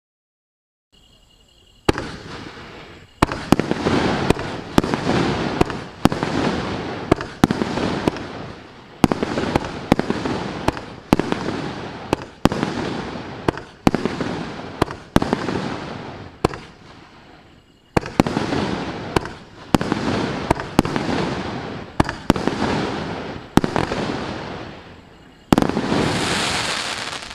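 Maxsem 1.7-inch, 19-shot firework cake firing about two seconds in and running for about 25 seconds: a rapid series of sharp bangs, each trailing off in crackle and hiss. A longer hissing burst comes near the end.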